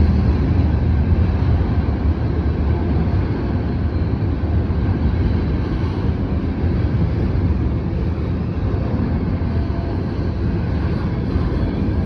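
Norfolk Southern freight train rolling past, a steady heavy rumble of cars on the rails.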